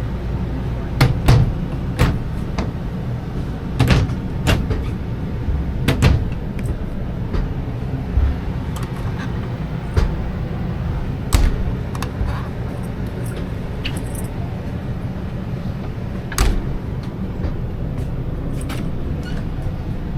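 Irregular sharp clicks and knocks, a dozen or so, over a steady low hum inside a motorhome's cabin.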